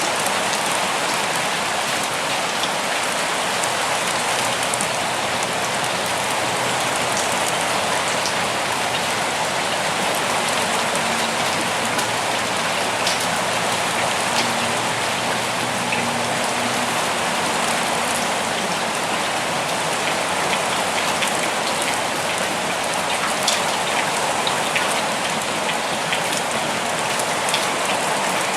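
Steady rain falling, with scattered individual drops ticking out above the even hiss.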